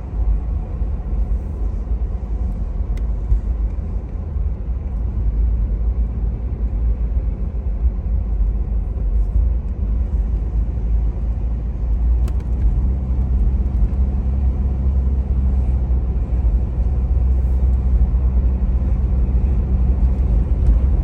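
Cabin noise of a 1994 Toyota Land Cruiser FZJ80 on the move: a steady low rumble from its straight-six engine and the road. An engine hum steadies about twelve seconds in.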